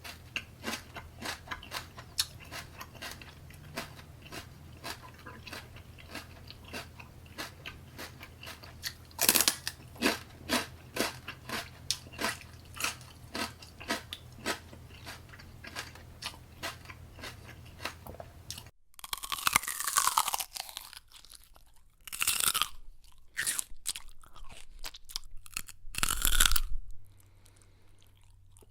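Close-up chewing of crunchy food, with rapid, even crunches about three a second and one louder bite about nine seconds in. After an abrupt cut about two-thirds in comes a different stretch of eating noise, with scattered louder bursts and a short falling squeaky tone.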